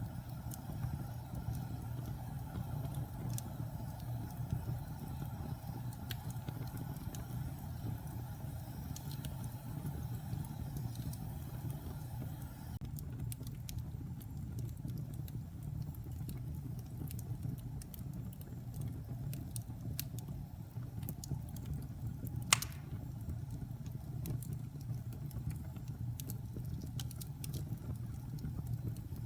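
Wood fire burning in a fireplace: a steady low rumble with scattered small crackles, and one sharp, loud pop about three-quarters of the way through.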